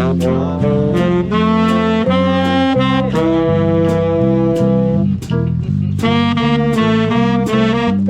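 Swing band playing jazz: saxophones carry the held melody notes over a bass line that changes note on the beat and steady drum strokes.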